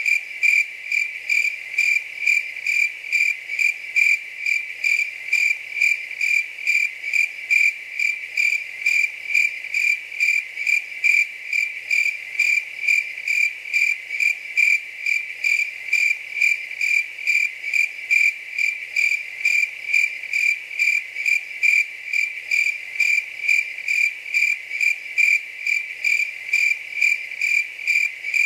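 A cricket chirping steadily, with short, even chirps repeating about two to three times a second.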